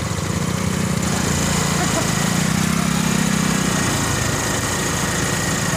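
A vehicle's engine running steadily; its hum rises a little from about two seconds in and eases back near four seconds.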